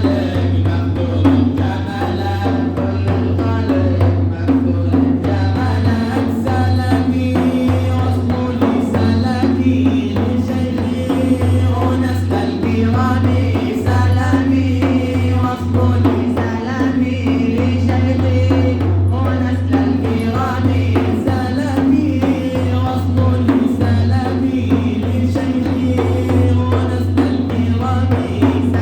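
Arabic devotional praise song (madih) sung over a steady drum beat, with a constant low drone underneath.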